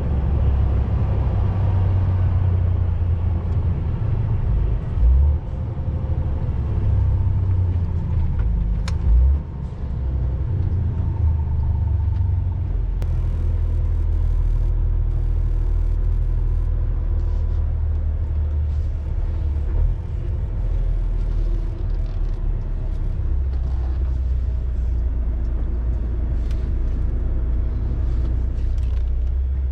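MAN TGX semi-truck driving on the road: a steady low engine and road rumble, with a couple of brief louder bumps.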